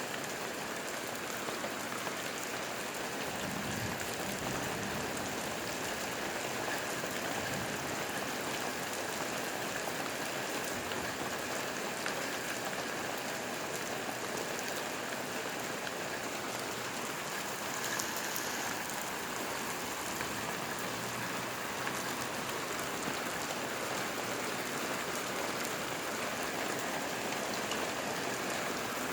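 Steady thunderstorm rain falling and pattering on surfaces, with a brief low rumble about four seconds in.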